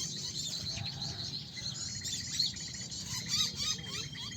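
A busy chorus of small songbirds: many quick, high chirps and twitters overlapping, over a steady, rapidly pulsed high note. A lower, wavering call joins about three seconds in.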